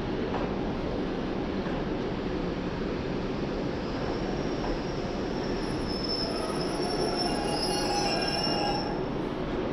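Passenger coaches of an arriving train rolling slowly past on the rails with a steady rumble. About four seconds in, a high squeal of several tones sets in from the braking wheels as the train slows, and dies away near the end.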